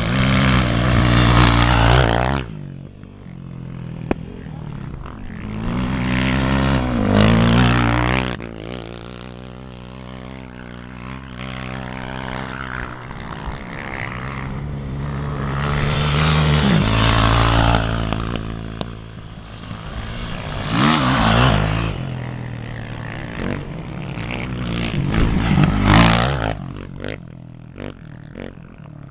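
Off-road racing engines revving up and easing off, in several loud surges with the engine note rising and falling between them.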